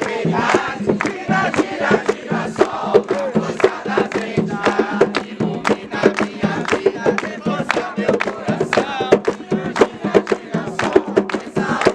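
Many voices singing a devotional chant together over a fast, steady drum beat, with occasional shouts from the crowd.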